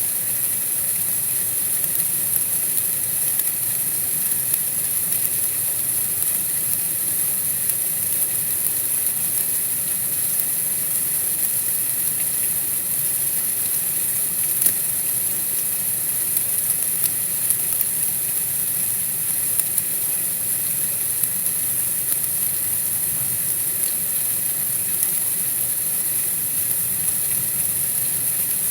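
Steady high-pitched hiss of outdoor night ambience, unchanging throughout, with a few faint scattered ticks, one a little clearer about halfway through.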